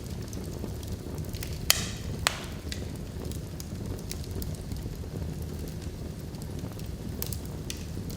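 Log fire burning in a fireplace: a steady low rumble of flames with scattered crackles, and two sharp pops about two seconds in.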